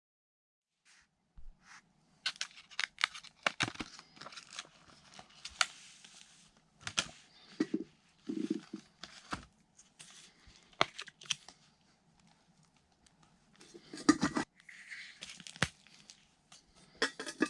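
Irregular crinkling, rustling and crackling with many sharp clicks, like material being handled or torn, in uneven clusters.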